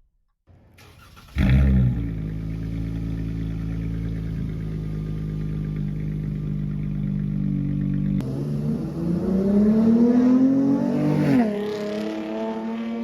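V6 car engine through an aftermarket Solo Performance exhaust: it comes in suddenly about a second and a half in and idles steadily, then revs up with the pitch rising for about three seconds before dropping back to a steady idle.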